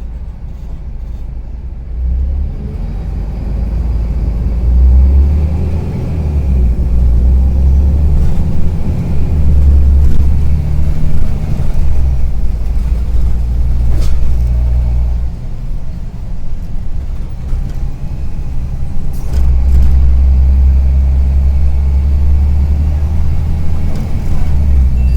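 Karsan Avancity+ articulated bus engine running under load with a rattling note. It builds up about two seconds in, eases off a little past halfway, then pulls strongly again.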